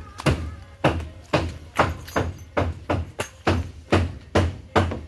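A run of sharp knocks with a low thump to each, about two a second, some coming closer together, stopping near the end.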